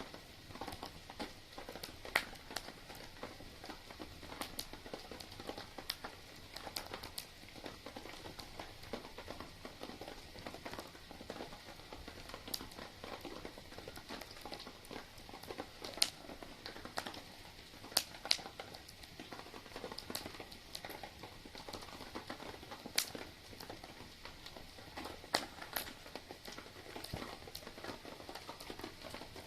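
Wood campfire burning with a steady crackle and sharp pops every few seconds, the loudest near the middle.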